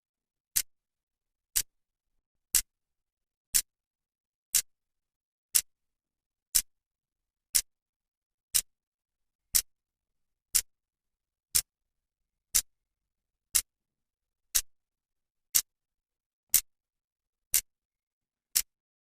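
Clock second hand ticking: one sharp, even click every second, with silence between the ticks.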